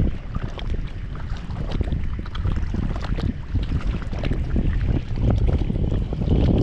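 Strong wind buffeting the microphone in heavy, uneven gusts, with choppy water lapping; a gust builds louder near the end.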